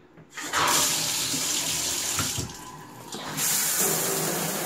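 Hotel shower turned on, water spraying steadily, starting about half a second in. The hiss drops for about a second midway, then returns at full strength.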